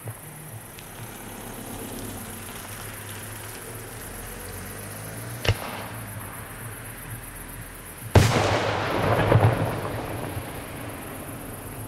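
Fireworks going off: a single sharp crack about five seconds in, then a much louder burst about eight seconds in whose rumbling tail lasts about two seconds.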